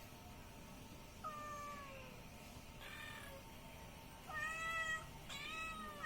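Kitten meowing four times in high, pitched calls. The first starts about a second in and slides down, the second is fainter, and the last two near the end are the loudest.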